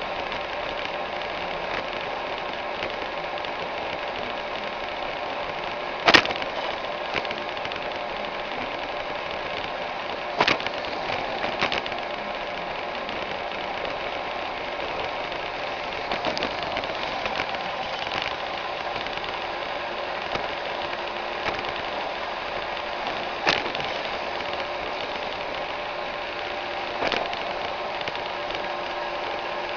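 Roomba 610 robot vacuum running steadily, with several sharp knocks spread through, the loudest about six seconds in.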